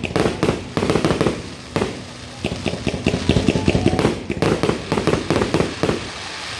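Consumer fireworks going off in a rapid string of sharp cracks and bangs, several a second, easing briefly about two seconds in before picking up again.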